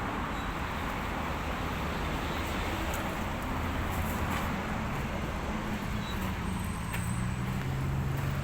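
Daihatsu Delta truck engine idling steadily with a low hum, the hum getting stronger about seven seconds in.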